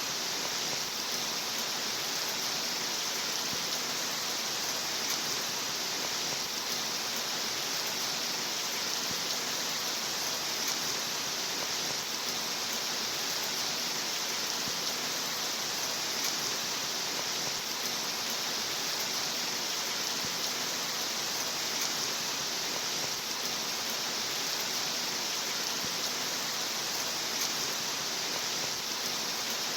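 Recorded rain falling steadily as an even, unbroken hiss, with no distinct drops or changes.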